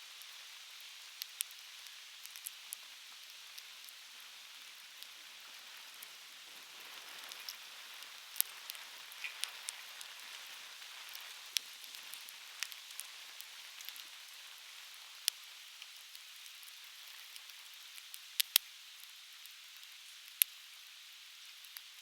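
Softwood campfire crackling, with irregular sharp pops and snaps scattered over a steady hiss. The loudest pops come close together about three-quarters of the way in.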